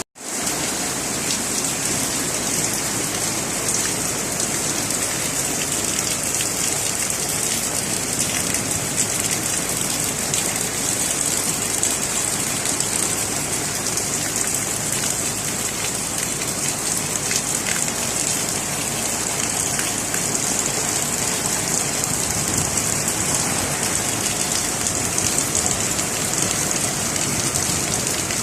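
Heavy rain pouring steadily, a dense, even hiss of drops hitting surfaces. The sound cuts out for a split second at the very start, then resumes.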